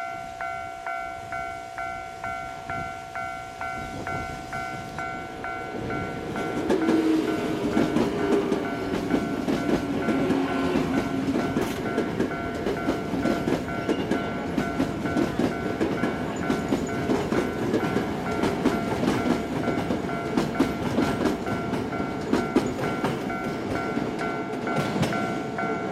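An electric commuter train passing close by, getting louder about six seconds in, its wheels clacking over the rail joints. Under it a two-tone level-crossing warning bell rings steadily about twice a second.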